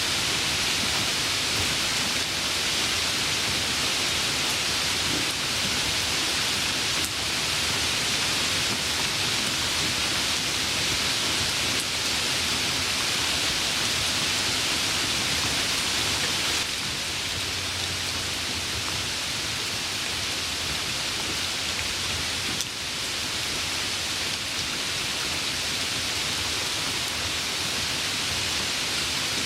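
Steady rain falling, an even dense hiss with no distinct drops or rhythm, dipping slightly in level a little past halfway.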